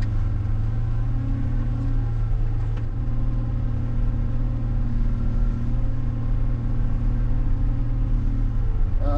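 John Deere 544K wheel loader's diesel engine running steadily with an even low drone.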